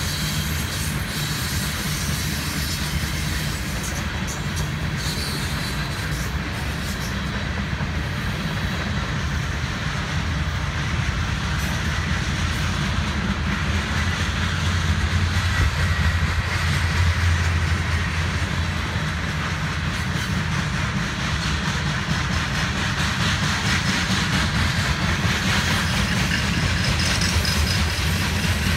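Covered hopper cars of a Norfolk Southern grain train rolling past: a steady rumble of steel wheels on the rails with a hiss above it, swelling a little about halfway through.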